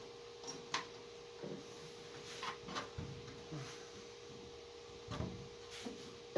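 Irregular light knocks, clinks and rubs of metal exhaust parts being handled and fitted into place, over a steady hum.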